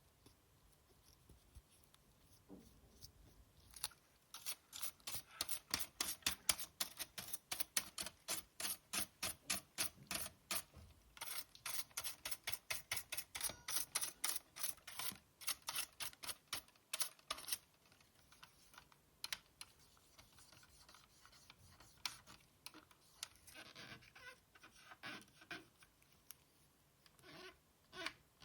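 Hand work on the PS4 Slim's optical drive: after a few quiet handling sounds, a long run of quick, even strokes, about three a second, like brushing or scraping on plastic, that stops about two-thirds of the way in and gives way to scattered lighter handling noises.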